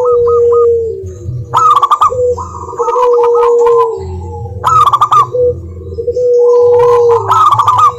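Zebra doves (perkutut) singing: repeated phrases of quick rolling coos, each ending in a long, steady low coo, with phrases overlapping and starting again every couple of seconds.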